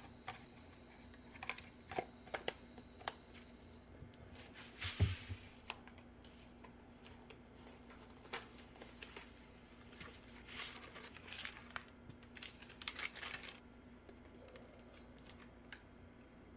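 Kitchen handling noises: scattered clicks and taps, a thump about five seconds in, and stretches of crinkling as a seasoning packet is handled before being torn open.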